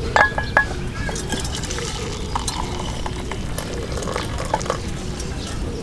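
Metal utensils and cookware clinking and scraping: a few sharp ringing clinks near the start, then lighter scattered taps over a steady low background noise.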